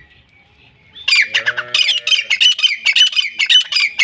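Female grey francolin calling: after about a second of quiet, a loud, fast run of harsh, repeated notes, about four to five a second.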